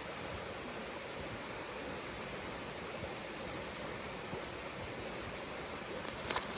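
A steady, even hiss of outdoor background noise, with a few faint clicks starting near the end.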